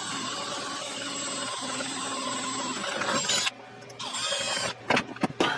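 Small power tool running steadily with a high whine for about three and a half seconds, then stopping. It runs again briefly, and a few sharp knocks follow near the end.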